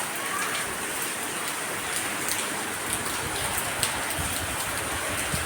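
Steady rain falling: a continuous hiss with scattered sharper ticks of drops hitting a surface.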